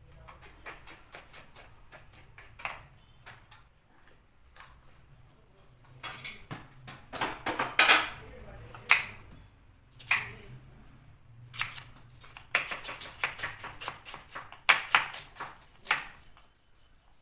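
Clatter of dishes and kitchen utensils being handled: irregular runs of sharp clicks and knocks, busiest in the middle and latter part.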